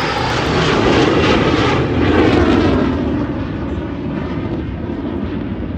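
Loud engine noise of a fixed-wing aircraft flying past. It swells to a peak about two seconds in, then fades.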